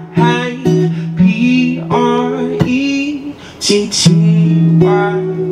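Live acoustic guitar strumming accompanying a singer, who carries a wordless, bending vocal line between sung phrases.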